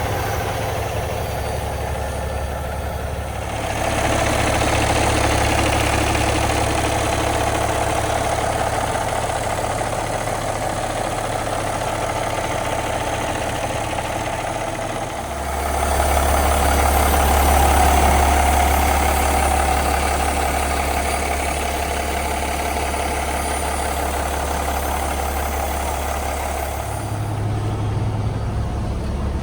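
Cummins X15 inline-six diesel in a Peterbilt 389 idling steadily, growing louder at about four seconds in and again at about sixteen seconds in.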